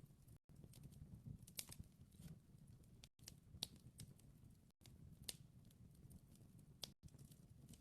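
Wood fire crackling softly: a low, steady rumble with scattered sharp pops and snaps, broken by a few brief gaps of silence.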